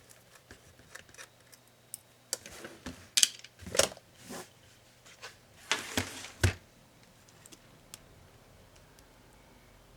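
Small clicks, taps and scrapes of laptop parts and hand tools being handled during disassembly. They come in a busy cluster between about two and seven seconds in, with a few louder knocks, and scattered light ticks otherwise.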